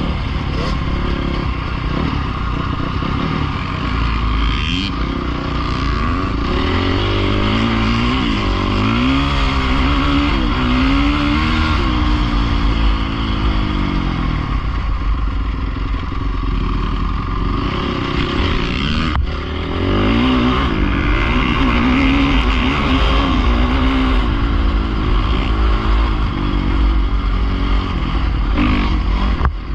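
Small dirt bike (pit bike) engines running and revving, the engine pitch rising and falling repeatedly over a steady low rumble.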